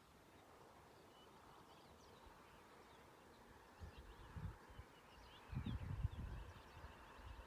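Faint scattered bird chirps over a quiet outdoor hush. From about four seconds in, low irregular rumbles buffet the microphone, strongest a little past halfway.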